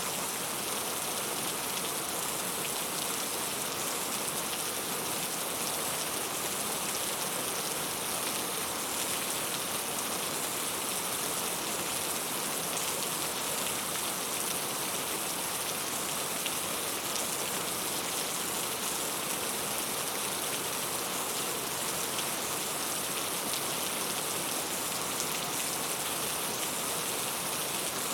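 Steady rain falling: an even hiss of many small drops that keeps the same level throughout.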